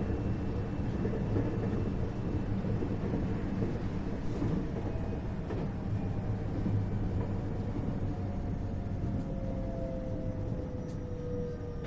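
Inside a 521 series electric multiple unit's motor car: a steady rumble of wheels on rail, with the traction motor tone falling slowly in pitch from about five seconds in as the train brakes for a station stop.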